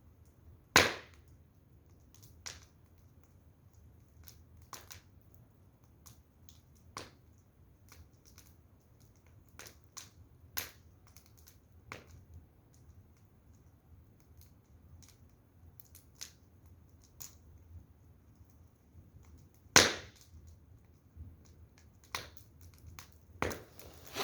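Firewood burning, crackling and popping in irregular sharp snaps, with two louder pops about a second in and near the end.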